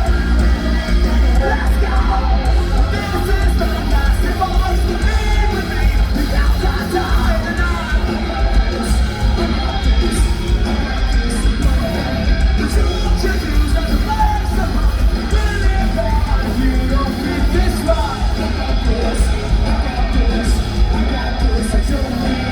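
Post-hardcore band playing live at full volume: a loud, continuous wall of band music with yelled and sung vocals.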